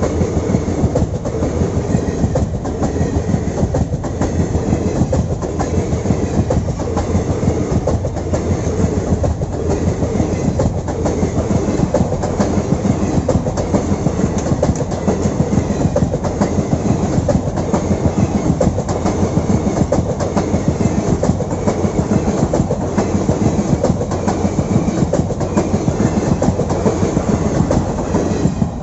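Express train's passenger coaches running past close by at about 60 km/h: a steady, loud rumble of steel wheels on rail with rapid clickety-clack over the rail joints.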